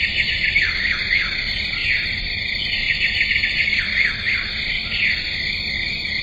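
Steady high-pitched chorus of insects such as crickets, with quick chirps running through it.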